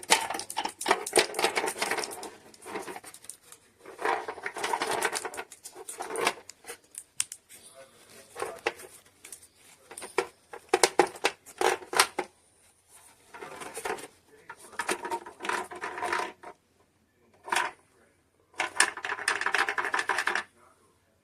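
Portable ceramic space heater fan rattling in uneven spells of dense clicking a second or two long, with short pauses between. Its source is unknown, even to the owner.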